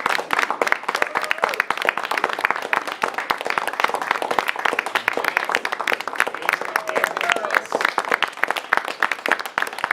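Audience applauding: a dense, continuous patter of many hands clapping, with a few voices faintly heard underneath.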